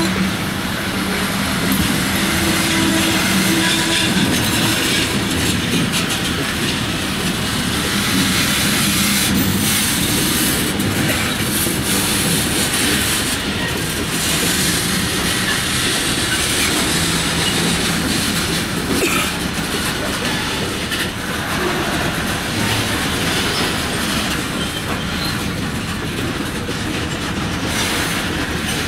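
Freight train cars rolling past on yard track, wheels clattering over rail joints and squealing against the rails at times. A low steady hum sits under the clatter for the first few seconds.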